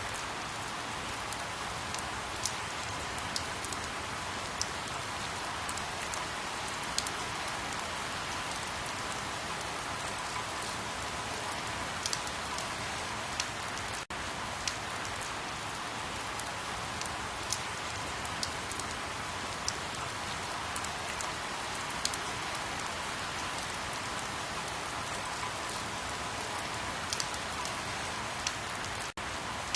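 Steady rain falling, an even hiss with scattered sharp drip clicks of drops hitting a surface. The sound drops out for an instant about halfway through and again near the end.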